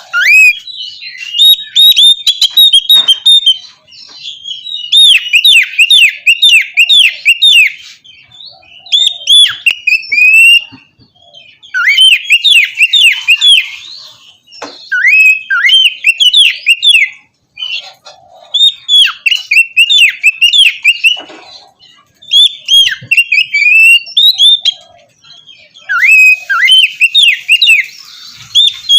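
Oriental magpie-robin (kacer) singing: eight phrases of quick, sharply slurred whistled notes, each two to three seconds long, with short pauses between.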